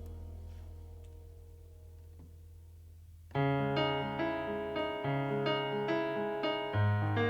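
Instrumental jazz played live: a held low note fades away over the first three seconds, then piano comes in suddenly about three seconds in with repeated chords over a low bass line.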